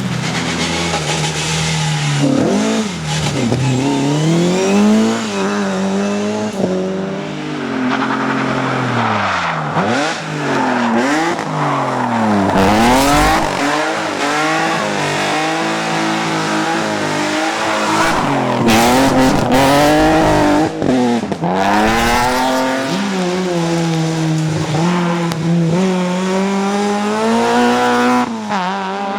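Rally car engine revving hard and dropping again and again, its pitch climbing and falling every second or two, as the driver works the throttle and gears through a sprint stage.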